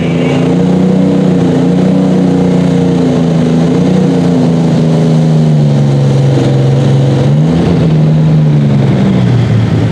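Light super stock pulling tractor's engine running loud at full throttle under load. Its pitch holds nearly steady, sags and recovers a few times, and drops near the end.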